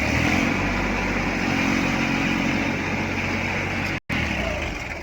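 Heavy farm or construction machine's diesel engine running steadily, with a brief total cut in the sound about four seconds in.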